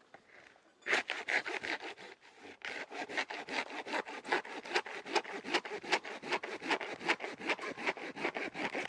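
Hand saw cutting wood: a steady rasp of quick back-and-forth strokes, several a second, that starts about a second in.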